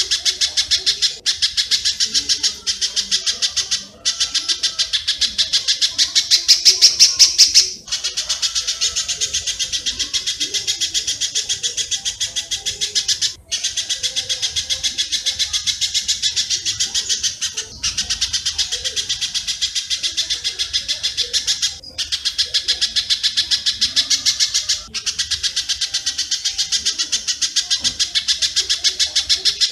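Fast, even runs of sharp, high chirps from spiderhunter (pijantung) and swiftlet (walet) calls, broken by short pauses every few seconds.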